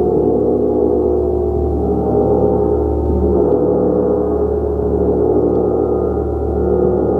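Gong played continuously, a dense, sustained wash of many overlapping tones that swells gently, with no distinct strikes.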